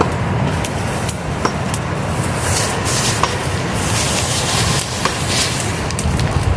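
A steady roar of rushing river rapids, with scattered sharp crackles and pops from a campfire over it.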